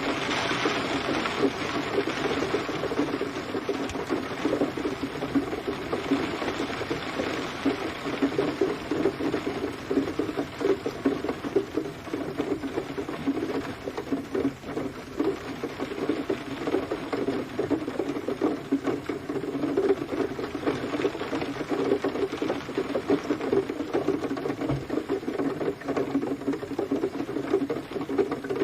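Steady rain pattering: a dense, even stream of drops hitting a surface, with no let-up.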